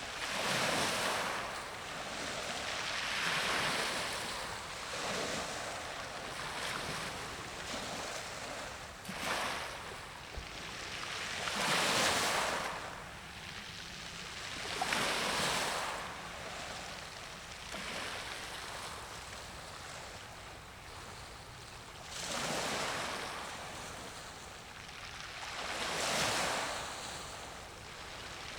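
Waves washing in on the shore: each is a swelling, fading rush of water, arriving every few seconds with a longer lull about two-thirds of the way through.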